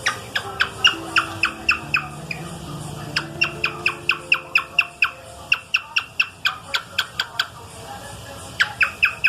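Cockatiel calling in rapid runs of short, sharp chirps, each sliding steeply down in pitch, about four a second, with two brief pauses between runs. Faint low held notes sit underneath.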